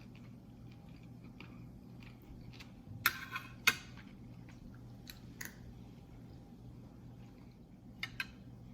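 A person eating tosilog, with quiet chewing and faint mouth sounds. A few sharp clicks come through, two close together about three seconds in and two more near the end.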